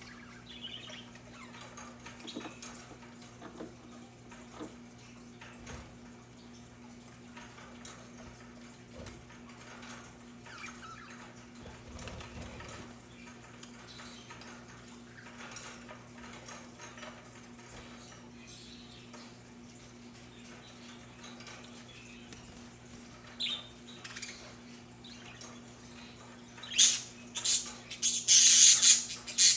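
Budgerigars chirping faintly and sporadically over a steady low hum, then breaking into loud, rapid, high-pitched squawking chatter near the end.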